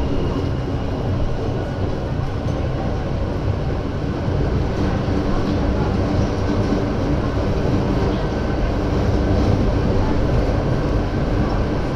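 Lausanne-Ouchy rack (cog) railway train climbing uphill. A steady, loud running rumble, with a faint high whine held over it.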